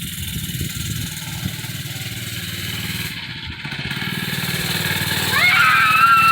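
Small mini bike engine running steadily, with slight rises and falls in speed. About five seconds in, a loud high-pitched sound rises sharply and then holds level.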